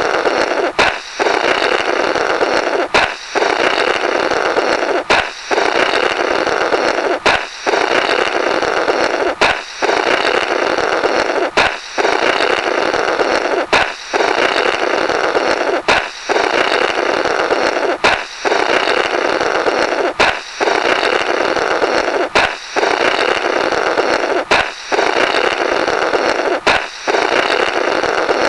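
Comedy 'Blorrrt' sound effect, looped: a sharp balloon pop followed by about two seconds of someone blowing a sputtering raspberry through the burst balloon. It repeats every 2.2 seconds or so, about thirteen times.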